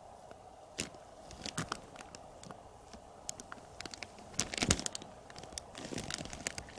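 Rustling and scattered light clicks and knocks of movement close to the microphone, loudest in a short cluster just after halfway, over a faint steady hum.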